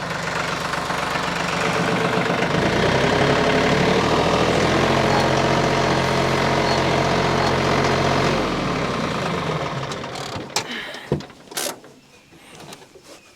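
Tractor's diesel engine running as the tractor backs away, holding steady for several seconds and then fading out about ten seconds in. A few sharp knocks follow near the end.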